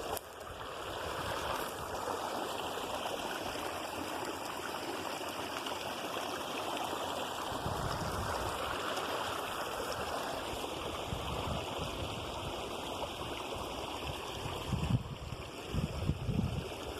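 Creek water running steadily, with a few low bumps near the end.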